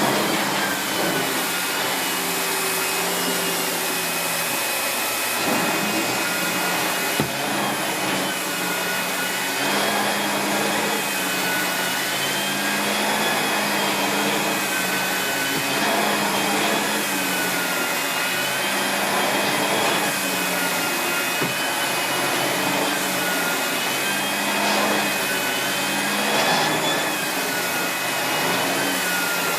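Miele S8730 (C3 Complete) cylinder vacuum cleaner running steadily while vacuuming. Its motor whine wavers up and down in pitch every few seconds over a constant rush of air.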